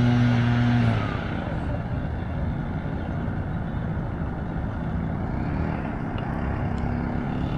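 A motor vehicle's steady engine hum that stops about a second in, followed by steady low rumbling background noise.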